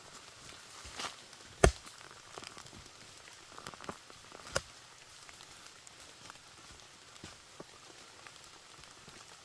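A few separate light knocks and taps over a faint hiss, the loudest about one and a half seconds in.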